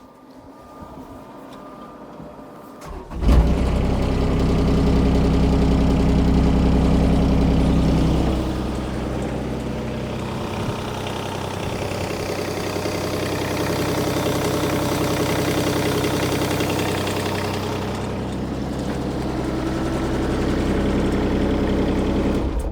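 Kubota diesel engine starting up about three seconds in after a fuel filter change and air bleed, running faster for several seconds and then settling to a steady idle. It cuts off abruptly near the end.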